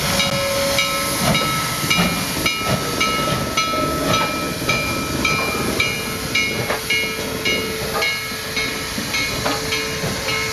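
Steam locomotive moving slowly, hissing steam, with a short ringing tone repeating about twice a second.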